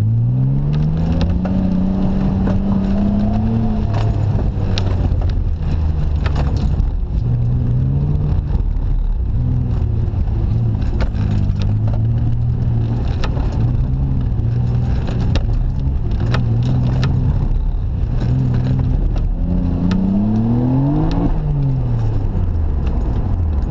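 Nissan Skyline GT-R R33's twin-turbo straight-six heard from inside the cabin under way: the engine note rises as it accelerates at the start, then holds with small rises and dips. Near the end it revs up sharply and falls away, with scattered light clicks.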